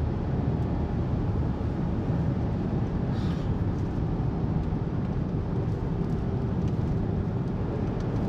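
Steady low rumble of road and engine noise inside a moving vehicle, with a brief hiss about three seconds in.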